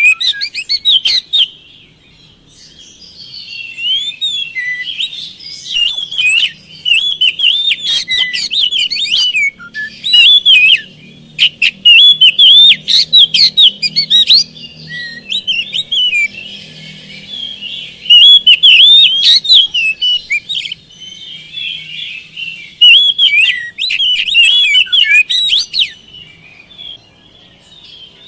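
Oriental magpie-robin singing in full song: rapid, varied whistled phrases and chirps in bursts of a few seconds separated by short pauses.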